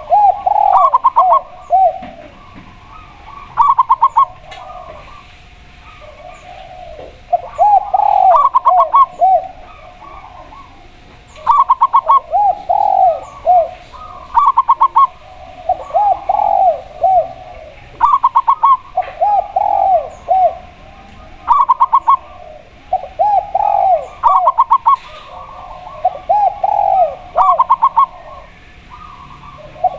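A spotted dove and a zebra dove cooing, their song phrases coming every two to four seconds and sometimes overlapping. One bird's notes run lower in pitch, the other's in a quicker, higher series. Faint high chirps sound in the background.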